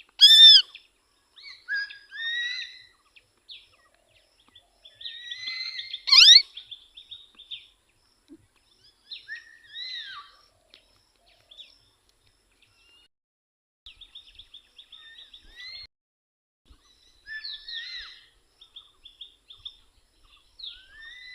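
Pet parrot calling: a series of squawks and rapid chattering calls, loudest a sharp squawk right at the start and a rising screech about six seconds in.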